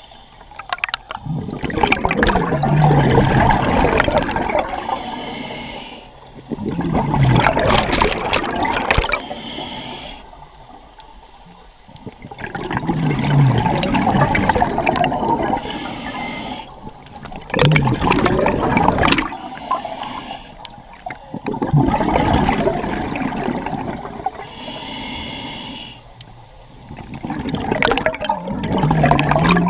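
A scuba diver breathing through a regulator underwater: exhaled bubbles burst out in loud gurgling rushes about every five to six seconds, six times, with a short hiss of inhaled air in some of the gaps between them.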